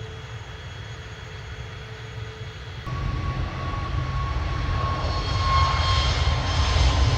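Airliner engine noise: a low rumble that steps up about three seconds in and keeps growing louder, with a high engine whine over it.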